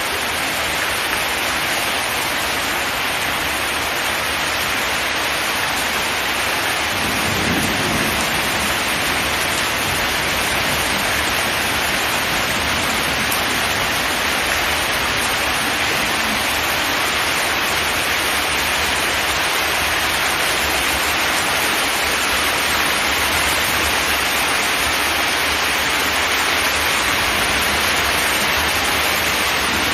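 Steady heavy rain on a zinc metal roof: a dense, even hiss, with a brief low rumble about seven seconds in.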